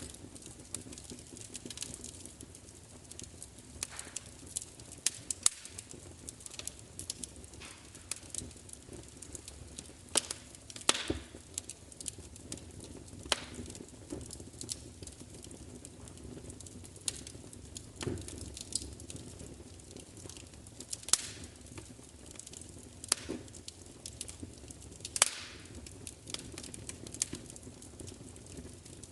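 Wood fire crackling steadily, with irregular sharp pops and snaps from the burning logs over a low, even rumble of flame.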